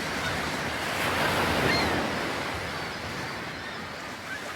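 Sea waves breaking on the shore, with some wind on the microphone, swelling about a second in and then slowly fading away.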